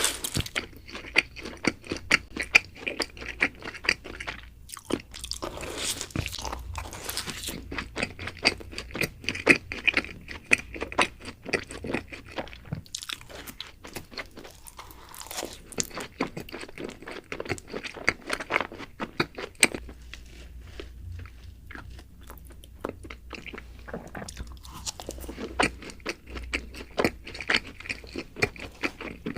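Close-miked chewing and biting of doughnuts, full of quick, irregular small clicks and crackles.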